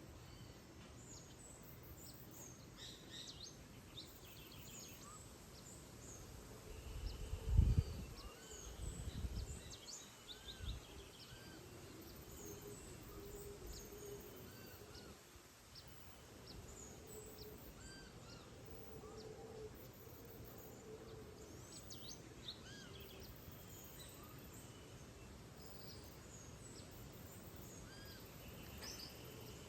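Rainforest dawn chorus: many birds chirping and calling, over a distant low droning band of howler monkeys roaring. A few low rumbles come about a quarter to a third of the way in.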